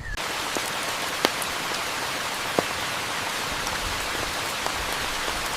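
Rain falling steadily, coming in suddenly at the start, with a couple of louder single drops striking close, about a second and two and a half seconds in.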